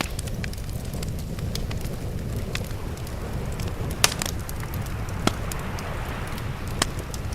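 Fire crackling, with a few sharp pops, the loudest about four seconds in, over a steady low rumble of sea waves.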